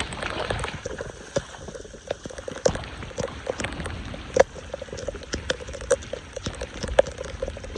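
Floodwater splashing and dripping, with many irregular sharp taps over a steady wash of water noise.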